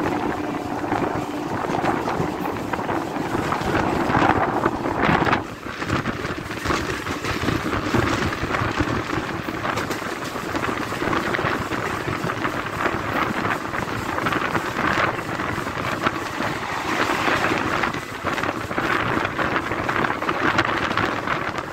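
Running noise of a moving passenger train heard from on board: a steady rush and rattle of wheels and carriage, with wind buffeting the microphone.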